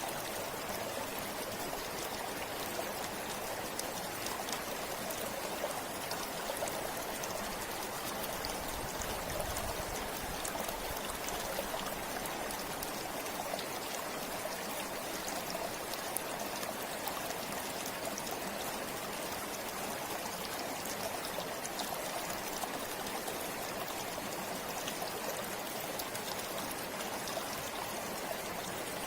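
River water flowing and splashing over rocks in a steady, unbroken rush, with fine trickling and droplet detail.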